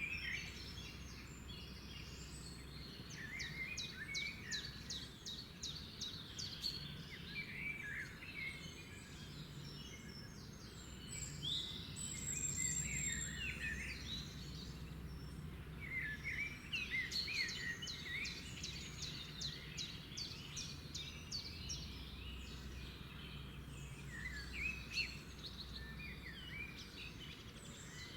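Several songbirds singing and calling together: overlapping chirps, warbled phrases and fast repeated trills, over a steady low background rumble.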